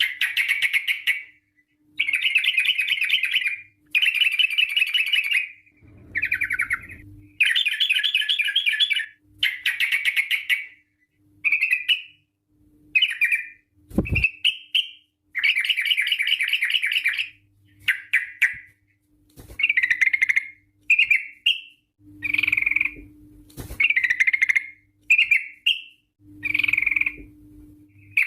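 Yellow-vented bulbul (trucukan) singing: a string of rapid, chattering trilled phrases about a second long with short gaps between them, giving way to shorter, quicker notes in the second half. A single low thump about halfway through.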